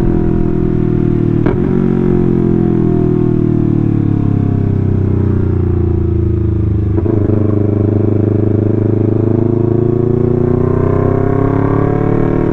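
Yamaha R3's parallel-twin engine running under the rider: the revs fall steadily for about six seconds as the bike slows, a short break comes about seven seconds in, then the revs climb again as it accelerates.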